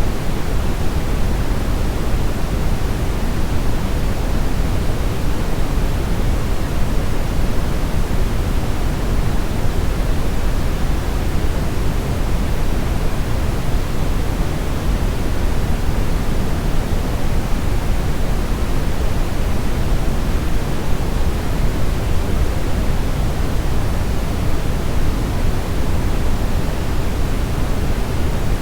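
Steady brown noise: an even, deep rushing hiss weighted heavily toward the low end, with no change or events.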